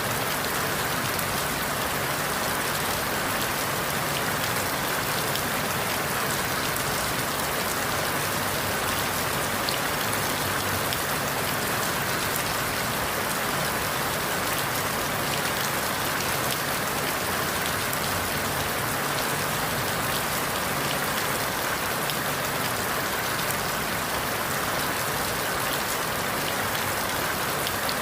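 Steady rain falling on forest leaves, an even hiss with scattered drop ticks.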